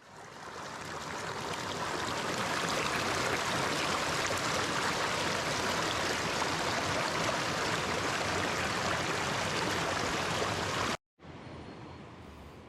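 Mountain stream water rushing steadily, fading in over the first couple of seconds. Near the end it cuts off abruptly, and after a brief silence a quieter, softer rush of water or air follows.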